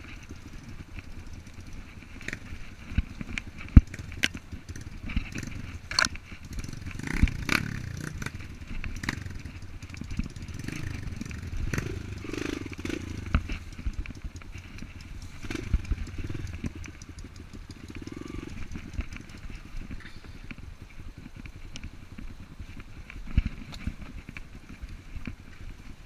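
Enduro dirt bike engine running unevenly off-road, with many sharp knocks and rattles throughout.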